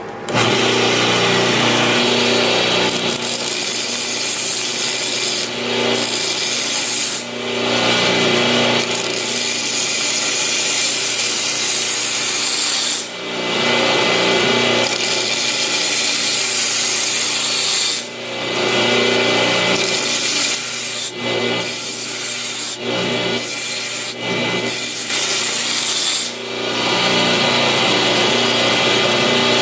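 Belt grinder running steadily while a steel knife blade is ground against the belt, flattening the chipped and dented edge to a straight line. The grinding noise drops away briefly several times, as at about 5, 13, 18 and 26 seconds in, while the motor hum carries on underneath.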